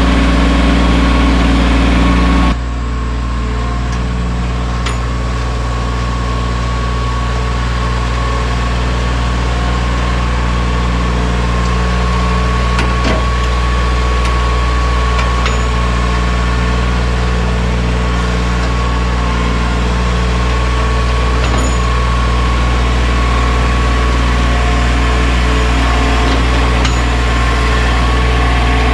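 Mahindra 1626 sub-compact tractor's diesel engine running steadily, with a high steady whine over it. The sound changes suddenly about two and a half seconds in, and a few faint clicks come later.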